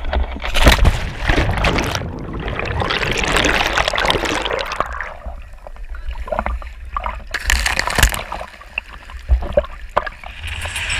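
Water splashing and sloshing in irregular surges, over a steady low rumble.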